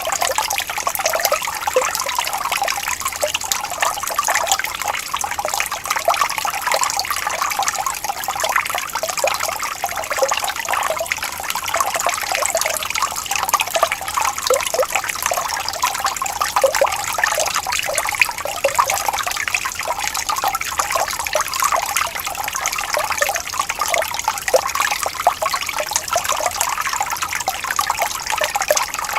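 Water trickling and splashing steadily over stones in a small stream, a continuous bubbling babble with no pauses.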